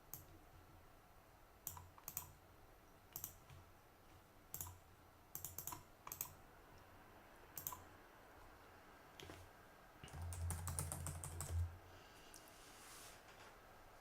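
Computer keyboard keystrokes, faint and scattered, a few clicks at a time, with a quicker run of typing about ten seconds in.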